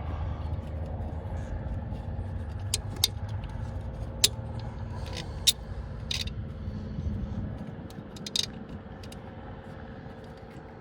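Scattered sharp clicks and clinks of hand tools and small metal parts during reassembly work on a machine, about eight in all, over a steady low rumble that drops away about eight seconds in.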